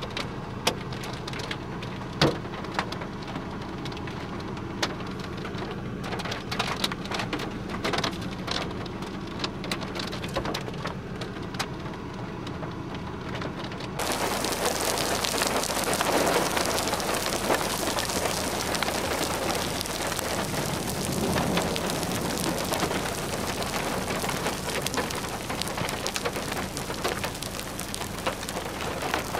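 Rain falling: at first scattered drops landing as separate sharp ticks, then about halfway through it changes abruptly to a heavy, dense downpour that carries on.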